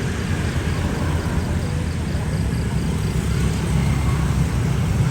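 Boeing 787-10 jet engines running steadily as the airliner taxis, heard as a continuous low rumble.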